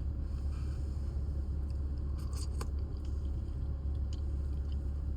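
Steady low rumble inside a parked car, with a few brief faint clicks a little over two seconds in, as of someone chewing and handling food.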